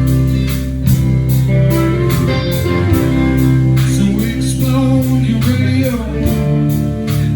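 A live band playing an instrumental passage between vocal lines: guitar and strong low notes over a steady drum beat.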